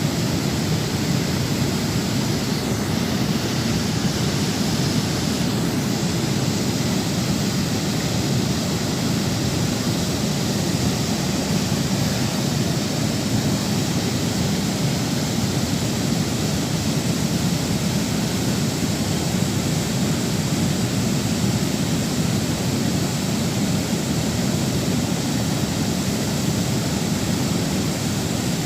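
Steady rushing of flowing water, an even roar that does not change.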